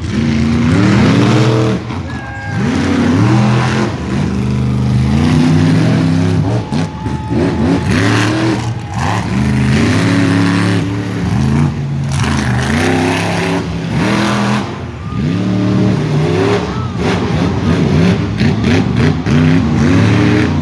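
Monster truck engines revving hard again and again, the pitch climbing and falling back every second or two.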